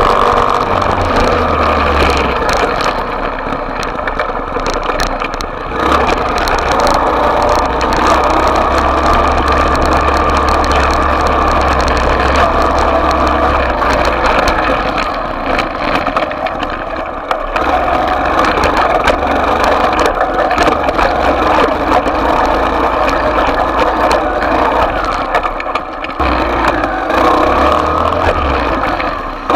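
Small dirt bike engine running continuously, its pitch shifting as the throttle is opened and closed.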